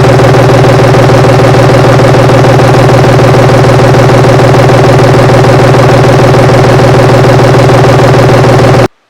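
Common-rail 5.9 L Cummins inline-six turbo diesel idling steadily and loudly, close up, with an even rhythmic clatter; the sound cuts off abruptly near the end.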